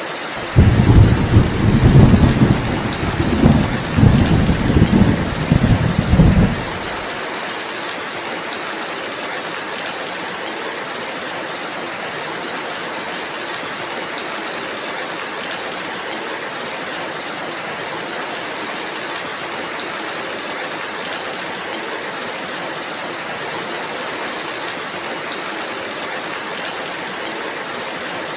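Steady rainfall hissing, with a loud rolling rumble of thunder starting about half a second in and swelling several times before fading out after about six seconds.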